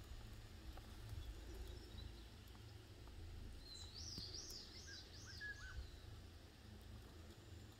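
A wild bird sings one short phrase of quick, rising-and-falling high notes about halfway through, faint over a steady low rumble.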